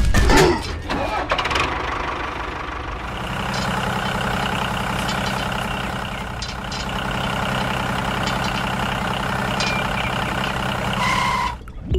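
Engine idling steadily with a fast, even pulse, after a clattering start; it cuts off abruptly near the end.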